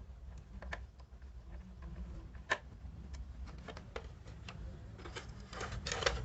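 Irregular small clicks and taps of objects being handled, with a sharper knock about two and a half seconds in and a quick cluster of clicks near the end, over a steady low hum.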